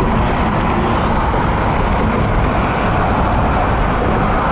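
Steady road and engine noise inside the cabin of a car moving at speed on a freeway.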